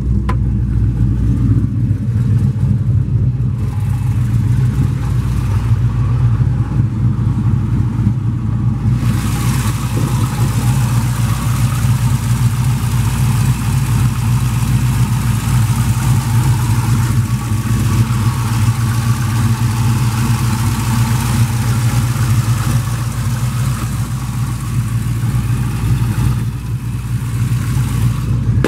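LS1 V8 in a 2002 Camaro Z28, cammed with a Texas Speed 228R camshaft, idling steadily with a low rumble through long-tube headers and a single Dynomax Race Bullet muffler. About nine seconds in, the sound turns brighter, with more high-pitched mechanical noise over the drone.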